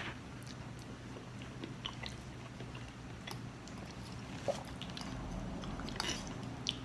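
A person chewing and biting food close to the microphone, with scattered small clicks and wet mouth sounds, over a low steady hum.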